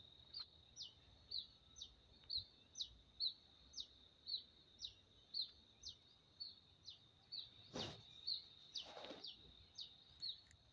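A bird repeats a short, high downward-sweeping chirp about twice a second over a steady high-pitched tone. A single knock sounds about eight seconds in, followed by a brief rustle.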